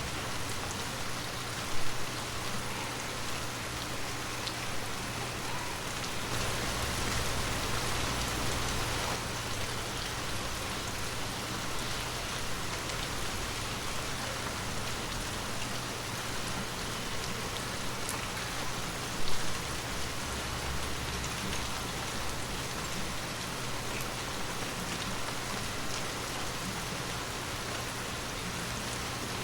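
Heavy rain falling steadily, an even hiss of drops hitting surfaces. There are two brief louder hits, one about two seconds in and one about two-thirds of the way through.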